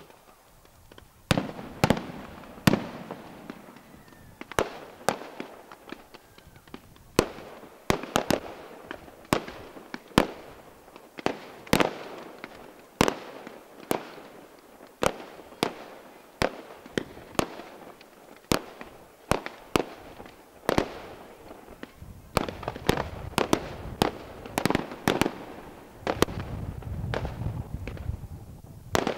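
Aerial fireworks display: shells bursting one after another in sharp bangs, roughly one or two a second, with smaller pops between. Near the end the bursts come thick and fast and run together into a continuous low rumble.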